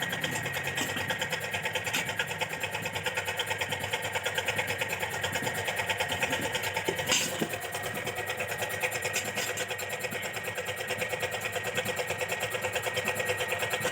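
A motor-driven machine running steadily with a rapid, even beat of about five pulses a second and a thin steady whine, with a couple of sharp knocks about halfway through.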